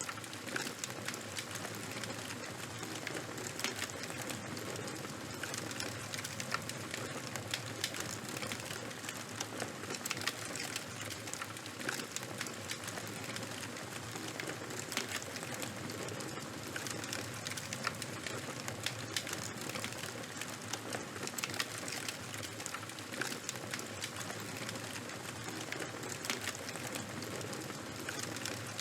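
Open fire burning: a steady hiss with frequent small, irregular crackles and pops.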